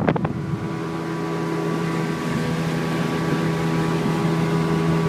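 Airboat engine and propeller running at a steady speed, a constant even hum, after a brief gust of wind noise on the microphone at the start.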